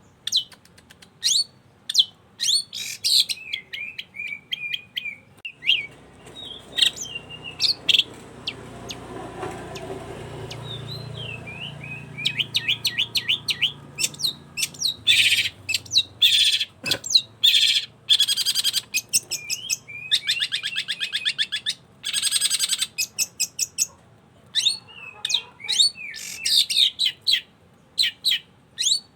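Long-tailed shrike (cendet) singing hard: a busy run of sharp chips, quick trills and harsh rasping notes, with short pauses between phrases.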